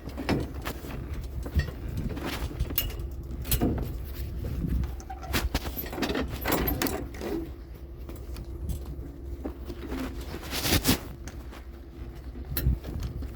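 Scattered knocks, clanks and rattles of scrap being handled and loaded onto a pickup truck, over a low steady rumble.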